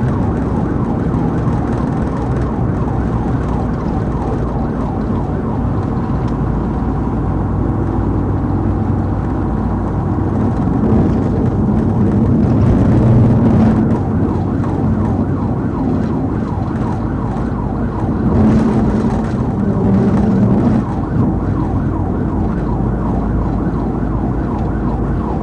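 Police car siren sounding continuously in a fast, wavering pattern over the cruiser's engine and road noise during a pursuit, swelling louder twice in the middle.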